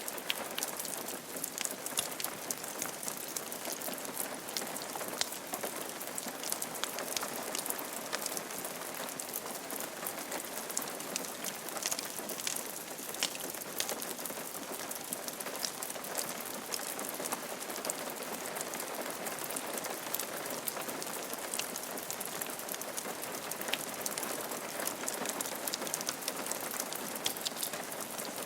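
Steady rain falling on a roof, with a constant hiss and many separate drops striking sharply.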